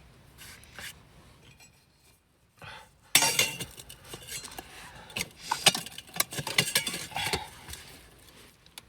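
Camp cookware and utensils being handled, clinking and knocking against each other. After a quiet start, a run of sharp clinks begins about three seconds in.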